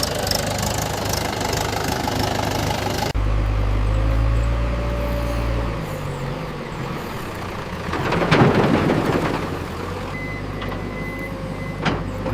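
Vehicle engine running steadily, with an abrupt cut about three seconds in to a heavier low drone, a loud rough swell around eight seconds, and a short row of high beeps near the end.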